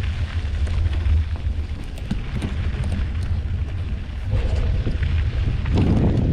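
Wind buffeting the microphone while riding a mountain bike at speed: a steady low rumble. Scattered clicks and rattles come from the bike going over a rough, rocky trail, and the noise grows louder near the end.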